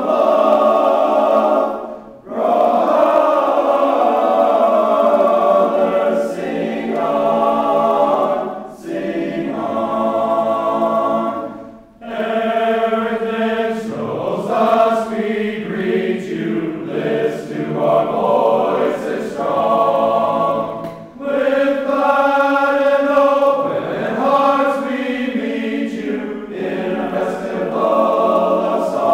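Small group of male voices singing a hymn a cappella in several-part harmony, in phrases of a few seconds with brief breaks between them.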